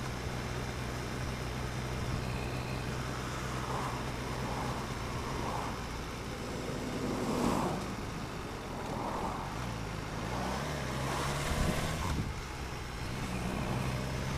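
BMW S1000R motorcycle's inline-four engine running at low revs in slow traffic, its note shifting about two-thirds of the way through. Other cars pass, swelling and fading several times.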